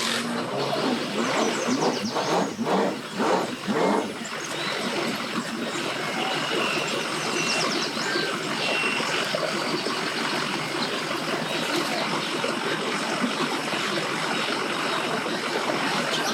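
Steady outdoor noise of vehicle engines running, with a few short, louder sounds between about one and four seconds in.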